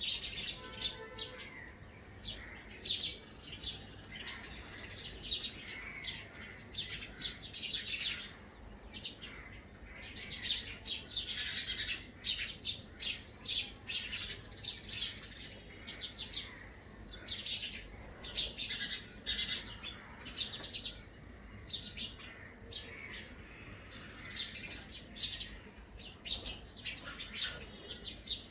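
A small bird chirping rapidly and repeatedly inside a house, in quick clusters of short high chirps with brief pauses between them.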